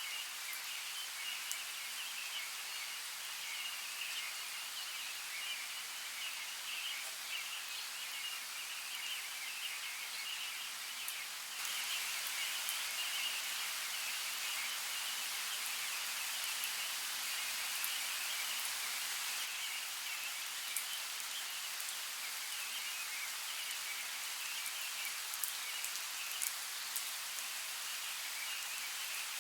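Steady hiss of a flowing creek, with a high-pitched chirring chorus in the background and a few faint ticks. The whole mix grows a little louder about twelve seconds in.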